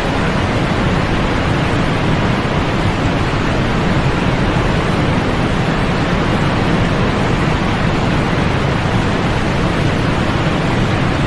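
Steady sleep noise: a constant, unchanging hiss, heavier in the low end than in the highs, with no rhythm or swells.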